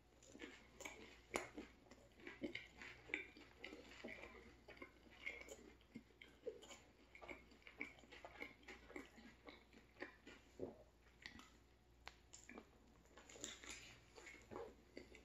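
Faint close-up chewing of a turkey sandwich: soft, irregular wet mouth sounds and small clicks, with another bite into the sandwich near the end.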